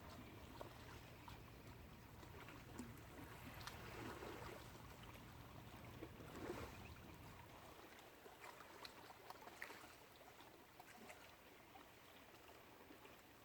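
Near silence: faint outdoor ambience with scattered small clicks and ticks.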